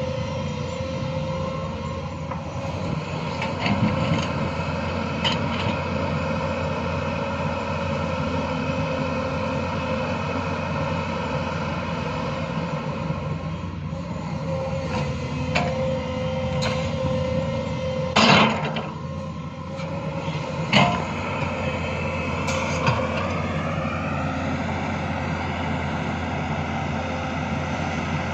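Excavator's diesel engine running steadily with a steady whine, broken by several sharp knocks, the loudest a little past the middle. About three-quarters of the way through, the engine pitch rises as it revs up.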